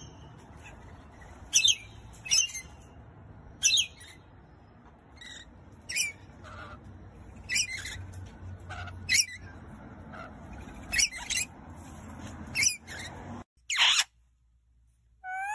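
Pet parrot giving short, sharp high-pitched chirps, about a dozen spaced a second or so apart, over a low room hum. The sound cuts out abruptly late on, followed by a falling squawk and another call.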